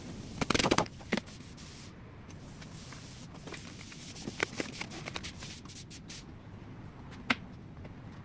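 Hand tools and metal engine parts clicking and clinking during work on an engine's timing. The loudest cluster of clinks comes about half a second in, with scattered single clicks later and one sharp click past seven seconds.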